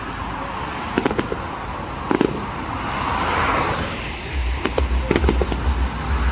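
Fireworks going off: a few sharp bangs, then a swelling crackling hiss, then a quick run of bangs near the end.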